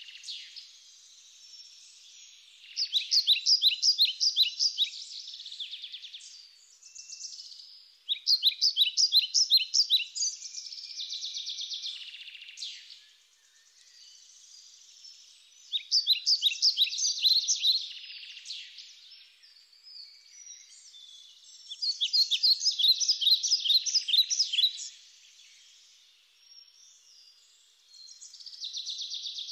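A songbird singing in repeated phrases, each a quick run of high notes lasting two to three seconds, four phrases with short pauses between.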